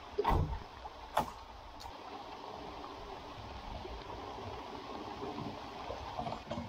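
Steady rain falling on the water and the skiff's deck. About a quarter second in there is a heavy knock, and about a second in a sharp click, from a fibreglass deck hatch being handled.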